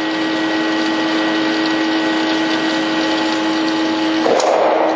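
Steady machine hum with a pitched drone and many overtones, with a short rushing noise about four seconds in.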